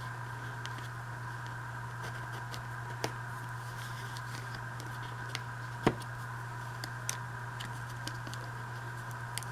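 Paper envelopes being handled and folded: a few light taps and clicks, the sharpest about six seconds in, over a steady electrical hum.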